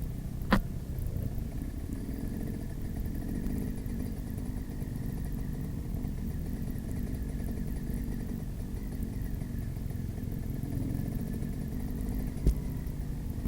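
Motocross bike engine running steadily under heavy low rumble, with two sharp knocks, one about half a second in and one near the end.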